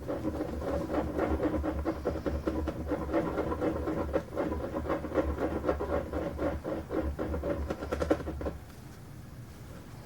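Epoxy resin and hardener being stirred in a mixing cup, the stirrer scraping quickly and repeatedly around the cup's sides and bottom. The stirring stops about eight and a half seconds in.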